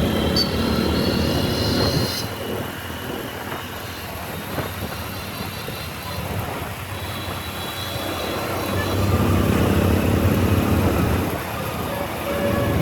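Motorcycle riding through city traffic: engine and road noise, louder for the first two seconds, easing off, then rising again after about eight seconds.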